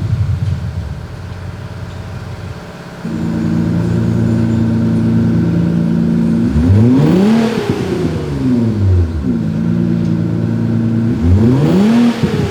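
Simulated engine exhaust note played through THOR electronic exhaust speakers: a steady idle that steps up suddenly in loudness about three seconds in, then two revs that rise and fall, one around the middle and one near the end.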